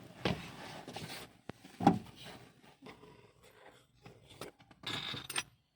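Socket wrench and sockets being handled: scattered rattles, clicks and scrapes of metal tools, with one sharp clank about two seconds in, as a socket that doesn't fit is swapped for another.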